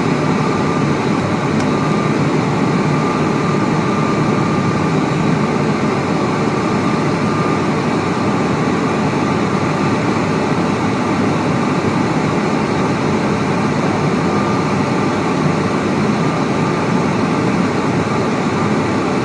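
Cabin noise of an ATR42-600 turboprop's Pratt & Whitney PW127M engines and propellers running steadily on the ground just after landing, a constant rumble with a thin steady high hum over it.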